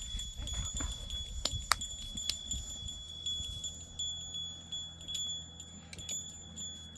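Small metal bells jingling, with many quick clinks over a steady high ringing tone that carries on between strikes.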